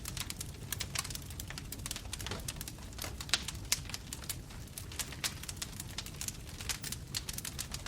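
Bonfire crackling: dense, irregular snaps and pops of burning wood over a steady low rumble of the flames.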